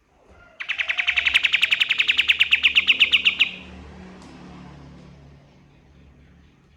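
Kapas tembak song bird singing a rapid trill of evenly repeated high notes, about ten a second, for about three seconds, cutting off sharply.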